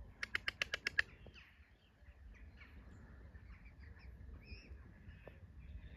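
A bird gives a quick run of about eight sharp notes within the first second, followed by faint, scattered chirps of other birds.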